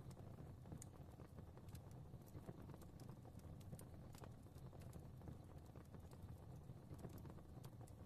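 Fireplace fire crackling faintly: irregular sharp pops and snaps over a low, steady rumble.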